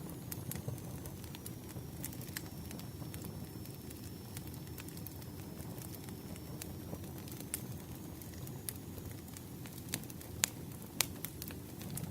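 Campfire burning: a steady low rush of flames with scattered sharp crackles and pops of burning wood, a few louder pops near the end, and a faint thin high whistle through much of it.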